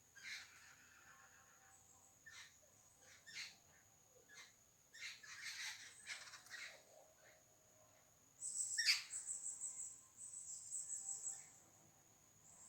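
Wild birds calling in short, scattered chirps, then a rapid high trill lasting about three seconds in the second half, over a continuous thin high-pitched tone.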